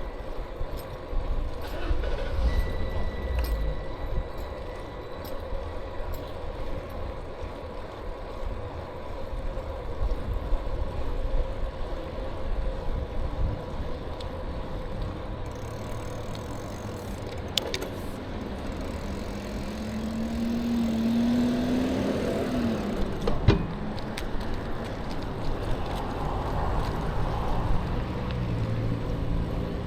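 Ride noise from a bicycle-mounted camera: low wind rumble and road noise with a faint steady whine. A few sharp clicks and rattles come through, and a short rising whine sounds about two-thirds of the way in.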